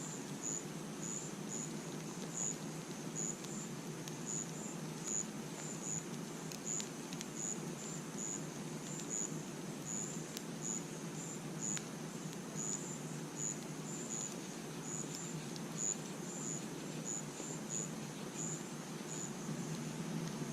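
Crickets chirping at night, short high chirps repeating about twice a second, over a steady low rumble. A few faint sharp pops of a campfire crackling come through now and then.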